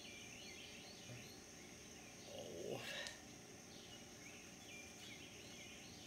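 Faint backyard ambience with small birds chirping repeatedly in the background. About halfway through comes a brief, louder rising swish that ends in a click.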